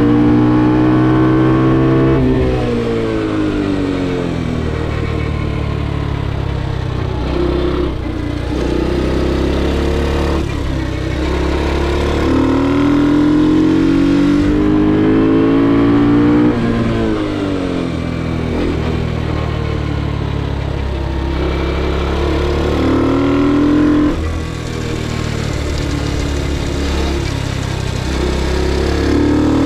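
Ohvale GP2 minimoto's single-cylinder four-stroke engine at full throttle, its pitch climbing through the gears with a step down at each upshift. The note falls away under braking three times, about every eight seconds, before climbing again.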